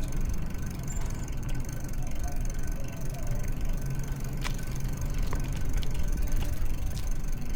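Steady low rumble of wind and rolling noise from a moving bicycle, with a few sharp clicks from the bike partway through.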